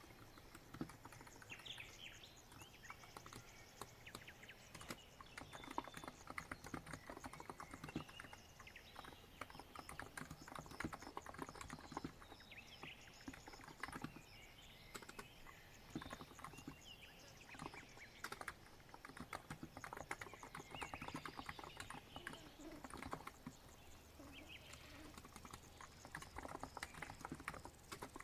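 Continuous typing on a COX Empress electro-capacitive keyboard: quick, irregular runs of soft key presses and thocks. Faint birdsong chirps run behind the typing.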